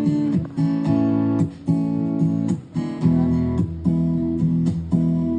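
Live acoustic guitar strumming a song's opening chords, each chord struck sharply and left to ring before the next.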